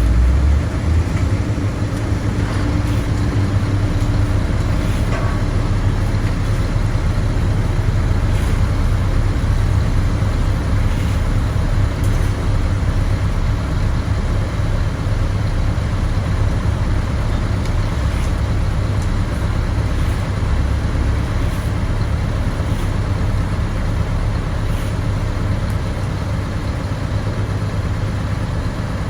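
Heavy diesel construction machinery running steadily, a constant low engine rumble.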